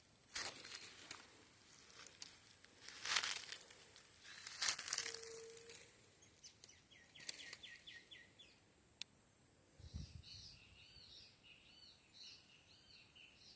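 Dry leaves rustling and crunching in three loud bursts over the first five seconds, then birds calling: a quick run of about six short repeated notes, and near the end a series of looping whistled notes.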